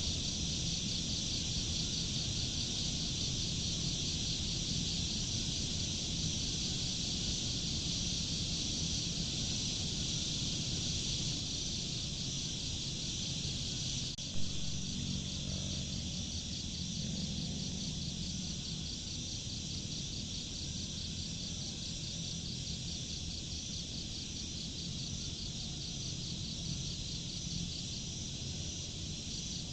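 A steady chorus of chirping insects, cricket-like, with a fast even pulse high in pitch over a low steady background hum. A single sharp click sounds about halfway through.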